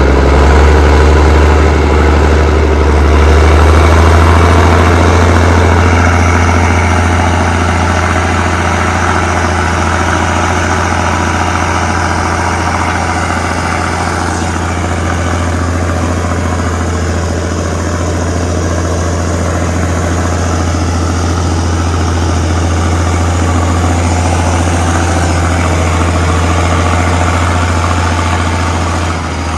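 Allis-Chalmers HD-21 crawler dozer's diesel engine running steadily with a deep, loud note, a little louder in the first few seconds.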